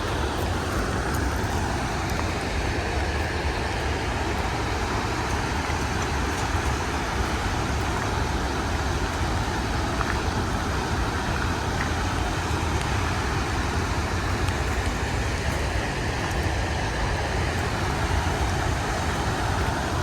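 Steady rushing of a large waterfall, an even noise with a strong low rumble.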